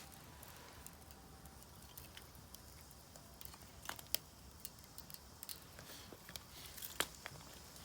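Firewood burning in a Solo Stove Campfire, crackling with scattered sharp pops; the loudest pops come about four seconds in and again about seven seconds in.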